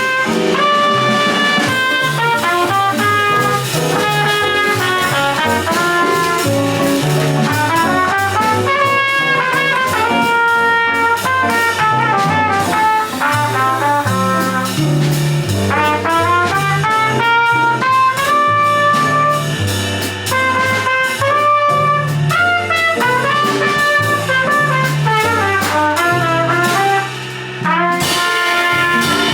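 Live small jazz band playing: a horn solo line over a walking bass and drum kit with ride cymbal, with a brief drop in level near the end.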